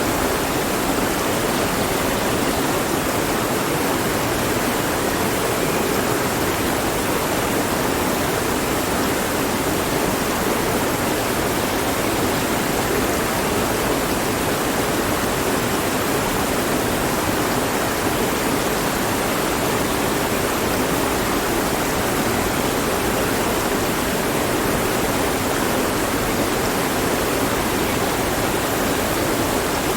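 Mountain stream rushing over rocks, a steady full wash of water noise with no breaks.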